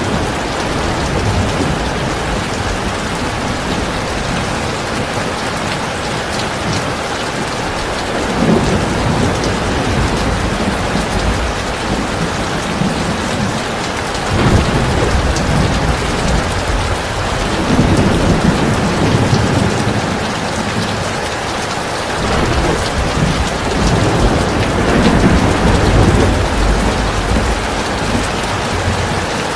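Heavy rain pouring steadily, with low rolls of thunder swelling up several times, from about a third of the way in.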